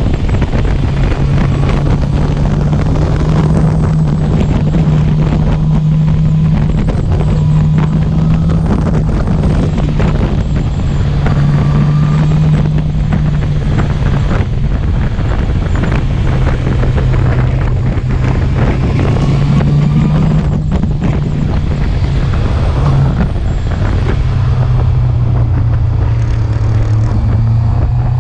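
Honda CB650R's inline-four engine running under way, its note holding steady and stepping down and back up a few times with throttle and gear changes, over wind rushing on the microphone.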